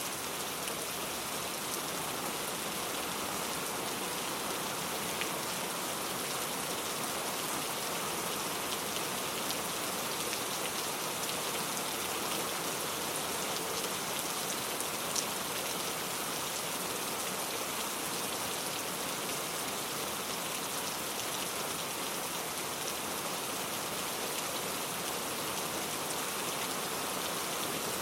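Steady rainfall, an even hiss of rain with scattered drop ticks.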